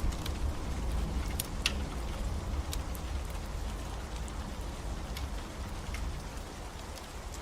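Steady rain with a low rumble that slowly fades, and scattered sharp pops from a crackling wood fire.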